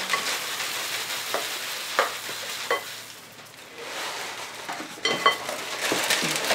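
Close-miked chewing and crunching of crunchy food, a steady crackly crunch with a few sharp clicks.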